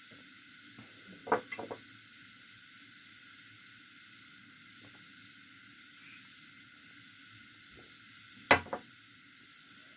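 Close-miked eating sounds: two short bursts of mouth smacks and clicks while chewing, about a second in and again near the end, over a steady faint hiss.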